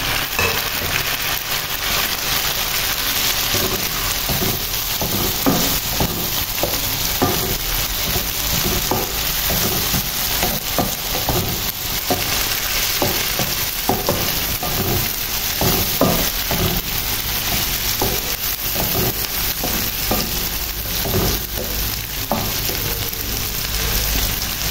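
Oil sizzling steadily as onions, green chillies and freshly added tomatoes fry in a non-stick pan. Throughout, a wooden spatula stirs them, scraping and knocking against the pan in short, irregular strokes.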